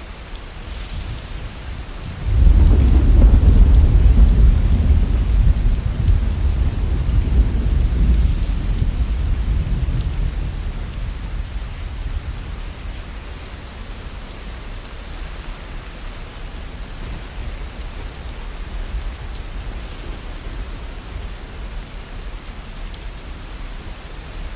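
Steady heavy rain, with a long roll of thunder that breaks in suddenly about two seconds in and rumbles away over roughly the next ten seconds.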